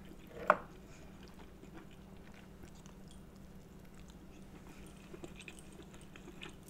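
Quiet mouth sounds of eating seafood: one short, sharp smack about half a second in, then soft, faint chewing with a few small clicks, over a steady low hum.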